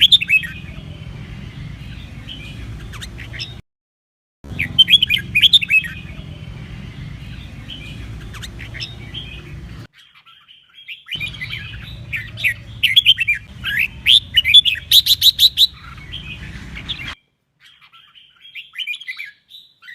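Red-whiskered bulbul singing in quick runs of rapid warbling, chattering phrases over a low steady hum. The recording cuts out abruptly three times, leaving short silences between spliced sections.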